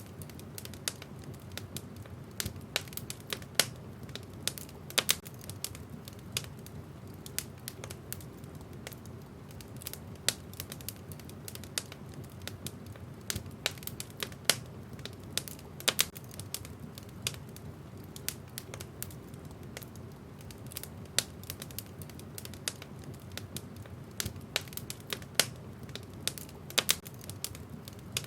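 Wood fire in a fireplace crackling, with irregular sharp pops and snaps over a low steady rumble of the burning fire.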